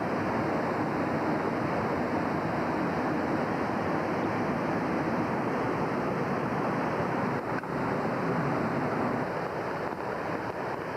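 The flooded North Fork Wilson River rushing past as a steady, even noise of fast, rough high water.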